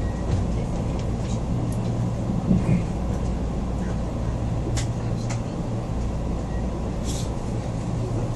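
Mugunghwa-ho passenger train running, heard from inside the coach: a steady low rumble and hum. Two knocks come about two and a half seconds in, and a few brief sharp clicks follow later.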